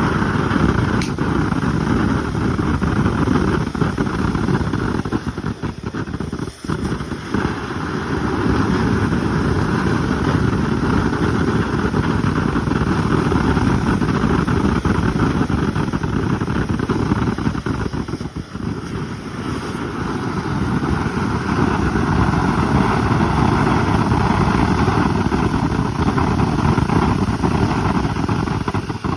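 Three nitrocellulose fountain fireworks burning at once, a loud, steady rushing roar that briefly dips twice, about six and eighteen seconds in.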